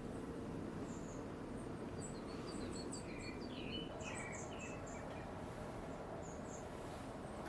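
Birds chirping in short, high calls, several overlapping around the middle, over a steady low background hiss.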